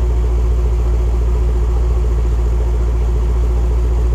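Range Rover SVR's 5.0 L supercharged V8 idling steadily, a loud, deep exhaust note with no revving.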